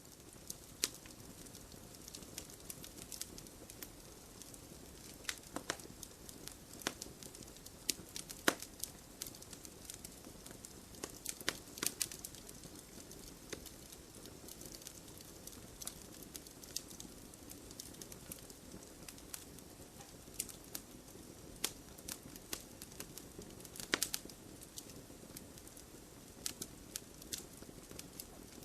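Wood campfire crackling: irregular sharp pops and snaps over a soft, steady hiss of burning, with a few louder snaps scattered through.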